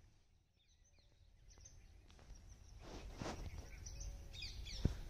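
Faint forest ambience: a low rumble with scattered bird chirps that grow more frequent in the second half, and a single sharp click near the end.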